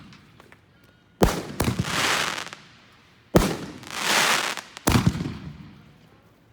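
Consumer fireworks going off three times, about a second apart. Each starts with a sharp launch thump, followed by about a second of hissing crackle as the effect bursts.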